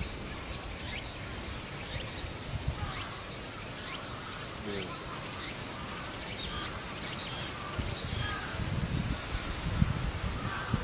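Outdoor ambience with a steady background hiss and scattered short bird chirps and calls. Low rumbling noise picks up near the end.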